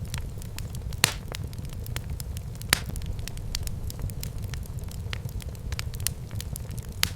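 Wood fire burning in a fireplace: a steady low rumble of flames with irregular crackles and pops, three louder pops about 1, 2.7 and 7 seconds in.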